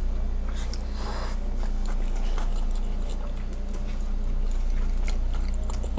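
People chewing food, with small scattered mouth and utensil clicks, over a steady low hum.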